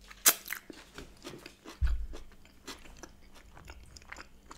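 Close-up chewing and wet mouth clicks from eating a smoked salmon and cream cheese bagel, with a sharp mouth smack about a quarter second in and a low thud about two seconds in.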